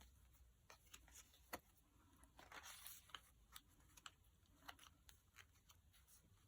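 Near silence with faint paper handling: light ticks of pages being turned and a brief soft rustle of paper a little under halfway through.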